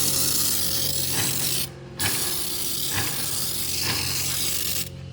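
Hand pressure sprayer hissing as it sprays foam, with a sharp click about once a second.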